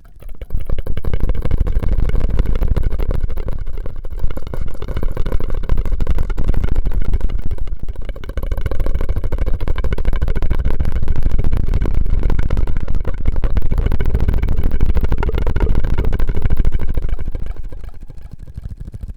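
Close-miked ASMR straw and mouth sounds: a continuous, dense, rapid wet burbling that starts about half a second in and fades out near the end.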